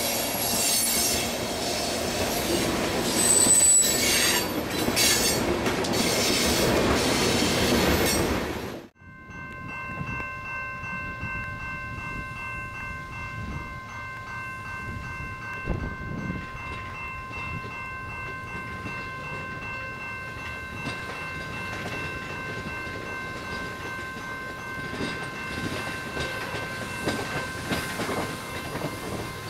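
Loaded coal hopper cars rolling past loudly for the first several seconds. After a sudden cut, a string of tank cars moves slowly through the junction's crossovers with a steady high wheel squeal in several pitches over quieter rolling noise.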